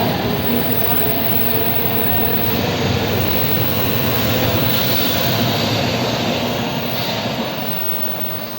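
Shinkansen bullet train running at speed: a steady rushing rumble that grows a little brighter midway and drops off near the end.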